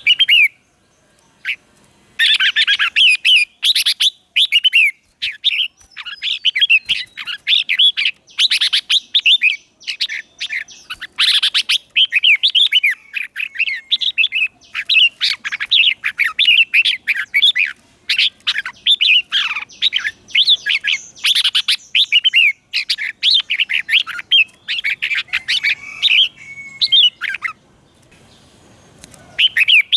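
Red-whiskered bulbul (decoy bird) singing: quick, bright, warbling phrases of many short notes, one after another with brief gaps. The song stops briefly near the end, then starts again.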